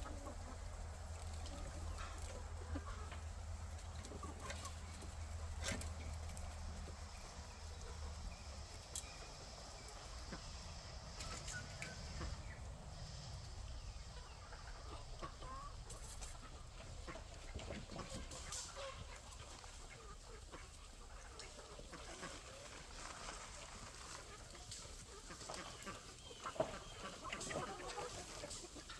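A flock of chickens clucking, with scattered short calls and clicks. A low steady hum fades out about nine seconds in.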